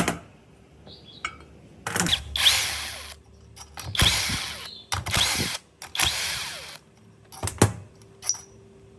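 A handheld power tool, drill-like, run in four short bursts of about half a second to a second each, with sharp clicks and knocks between them.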